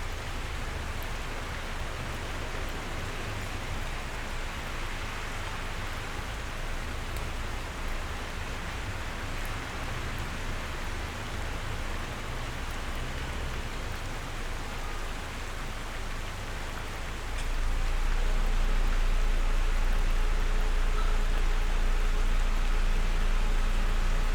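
Steady rain falling, with a few sharp drop ticks. About two-thirds of the way through a deep low rumble comes in and the whole grows louder.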